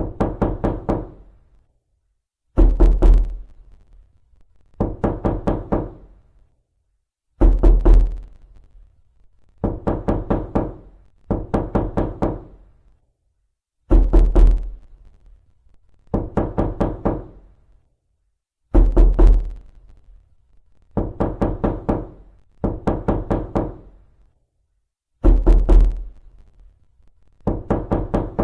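Knocking on a door: repeated bursts of four or five quick raps, each burst about a second long, coming roughly every two seconds with short silences between.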